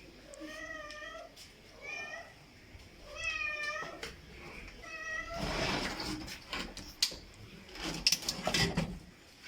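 Domestic cat meowing four times, short rising-and-falling calls, then several seconds of rustling with a few sharp clicks and knocks.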